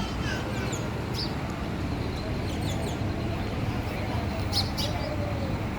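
Small birds chirping, several short high chirps with a quick pair near the end, over a steady low rumble.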